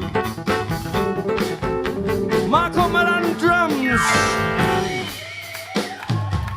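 Live band of electric guitar, keyboards, bass and drums playing an instrumental passage. A lead line of bending notes comes in partway through, then a long falling sweep, after which the backing thins out.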